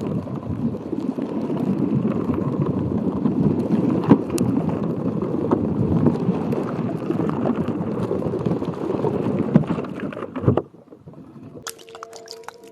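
Water sloshing and gurgling close to the microphone, with small scattered clicks, cutting off abruptly near the end. Rapid light tapping starts just before the end.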